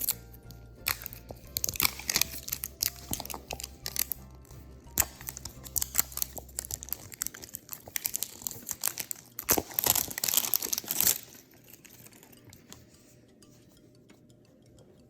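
Blind-box packaging being torn open and crinkled by hand, in irregular bursts for about eleven seconds and then stopping. Soft background music plays under the first half.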